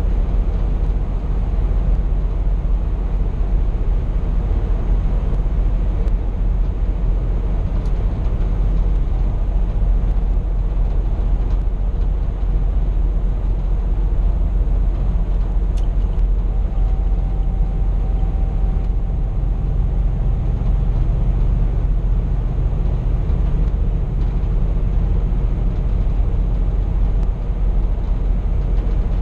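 Steady low drone of a Scania P420 truck driving at a constant pace, engine and road noise heard from inside the cab.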